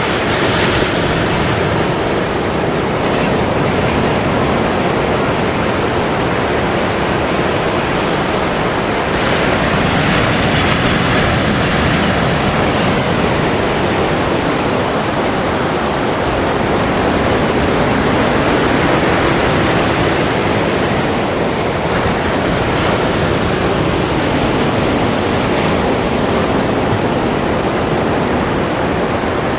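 Ocean surf washing continuously, a dense steady rush of water noise that swells gently a couple of times.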